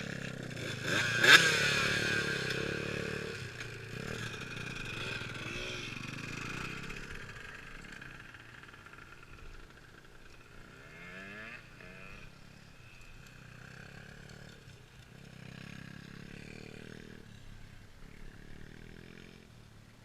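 KTM Freeride electric dirt bike passing close about a second in, then riding away and fading, its motor whine rising and falling as it goes.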